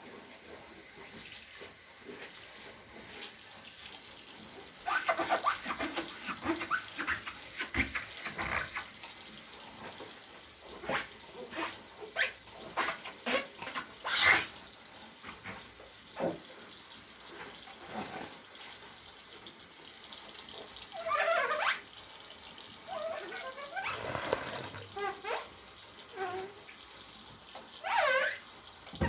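Wet, soapy sponge being squeezed and worked in water, squishing, with short gliding squeaks a few times over a steady hiss of water.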